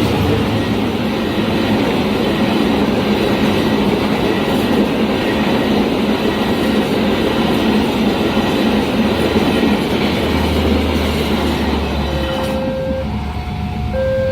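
A train passing at speed over a level crossing, its wheels clattering on the rails in a loud, steady rush that falls away about 12 seconds in. Alternating electronic beeping tones take over near the end.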